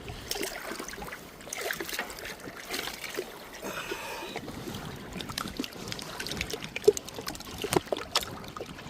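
Choppy water splashing and lapping, with scattered clicks and knocks and one sharper knock about seven seconds in.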